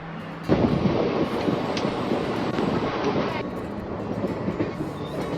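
A loud, dense rushing noise starts suddenly about half a second in and eases somewhat about three seconds later.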